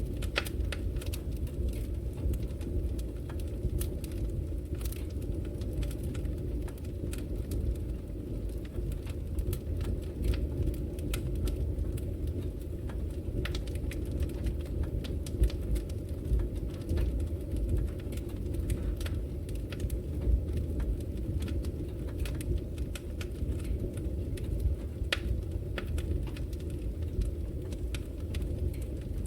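Wood fire burning in a fireplace: a steady low rumble of flames with frequent, irregular sharp crackles and pops from the logs.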